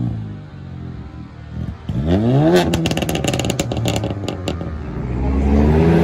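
A modified car's engine revved hard, its pitch climbing quickly about two seconds in, followed by a rapid string of sharp exhaust pops and crackles; the engine revs up again near the end.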